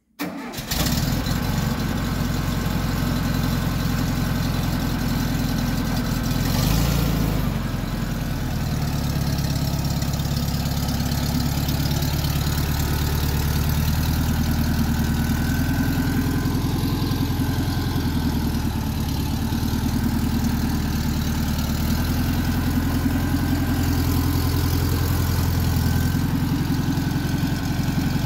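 Volkswagen Beetle's air-cooled 1200 flat-four engine starting at once and then running steadily at idle. The note changes briefly about seven seconds in.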